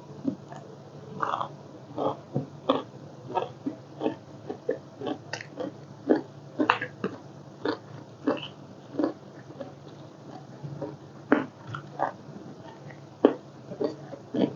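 Close-up eating sounds: a person chewing with short, wet mouth smacks and clicks coming irregularly about once or twice a second, over a steady low hum.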